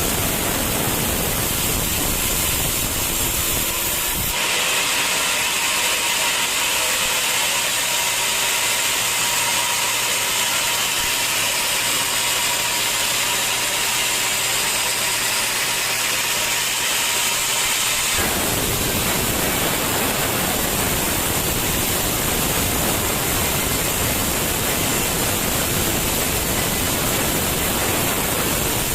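Sawmill saw and machinery running with a loud, steady noise. About four seconds in the sound changes abruptly to a higher hiss with almost no low rumble, and it switches back just as abruptly about eighteen seconds in.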